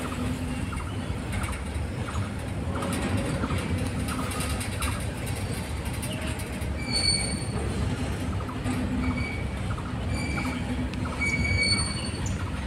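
Covered goods wagons of a freight train rolling past: a steady rumble of wheels on rail with a run of clicks, and several brief high-pitched wheel squeals from about halfway through.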